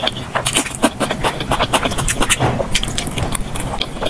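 Close-miked eating: rapid wet chewing and smacking, with dense quick clicks, sped up to double speed.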